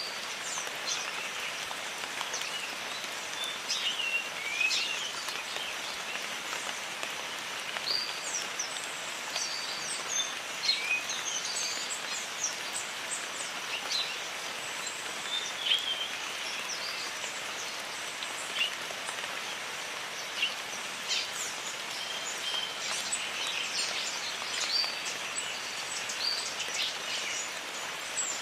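Steady rain hiss over a jungle, with many birds calling throughout in short chirps and whistles.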